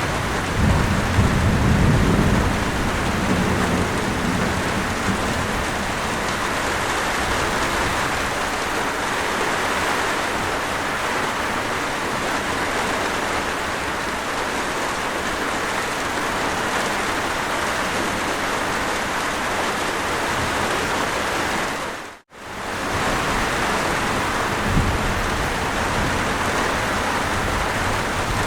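Steady, even rain, with a low rumble of distant thunder dying away over the first few seconds. About 22 seconds in, the rain fades briefly to silence and straight back in.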